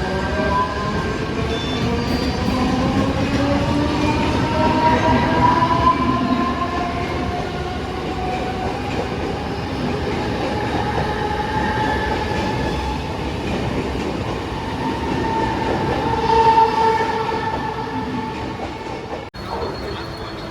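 Mumbai suburban EMU local train pulling away, its traction motors whining in several tones that climb in pitch over the first ten seconds and then hold steady, over rumbling wheel and track noise. Near the end the sound cuts off abruptly and a faint steady high tone follows.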